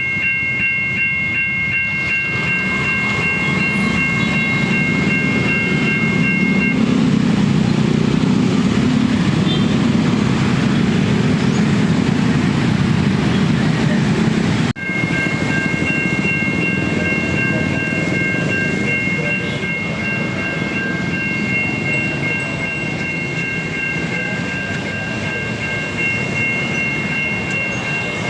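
A railway level-crossing warning siren (Siemens crossing equipment) sounds a steady three-note electronic tone while a train passes with a heavy low rumble and clickety-clack of wheels on rails. The tone drops out about 7 seconds in and comes back after a sudden break about 15 seconds in.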